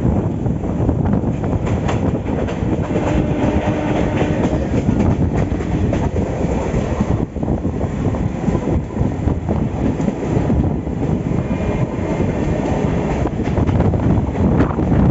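Passenger train running along the track: a steady rumble of wheels on rail with irregular clatter and knocks.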